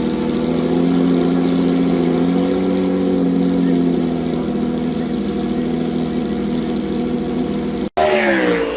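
Race car engine running at a steady pitch, rising slightly about three seconds in. After a brief cut near the end, a car goes by with its engine note falling.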